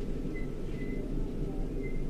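Steady low rumble of a Southern Class 377 electric multiple unit heard from inside the passenger car as it approaches a station, with a few faint, brief high-pitched squeaks.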